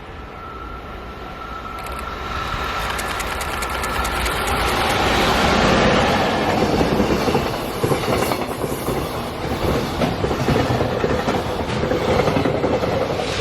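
Freight train approaching and running through a station, growing louder over the first six seconds and then staying loud. Its wheels clack over the rail joints in a rapid run of clicks, over a steady rumble.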